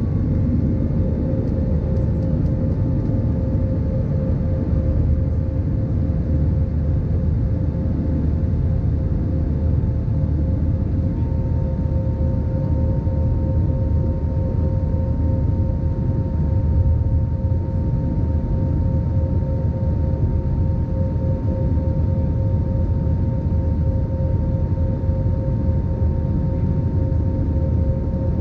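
Airbus A320 jet engines running steadily: a dense low rumble with two steady whining tones above it, the higher one growing slightly stronger about eleven seconds in.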